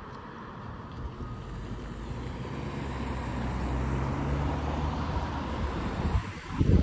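A freight train rolling by: a steady low drone that slowly grows louder, with wind on the microphone, and a sudden loud rush of noise right at the end.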